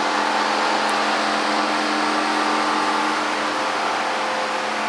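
Fans running steadily, a whirring rush of air with a steady hum and a few constant whining tones, a whine like a turbocharger spooling.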